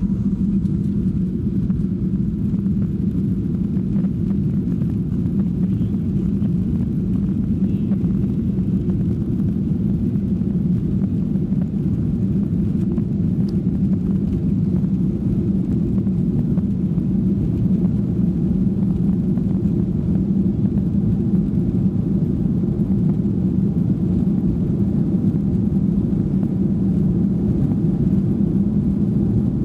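Boeing 737-800 cabin noise: the CFM56-7B engines and airframe heard from inside the cabin as a steady low rumble.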